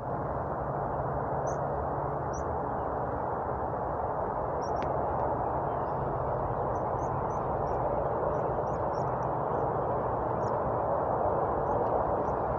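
Small birds giving short, high chirps, scattered irregularly over a steady rushing background noise.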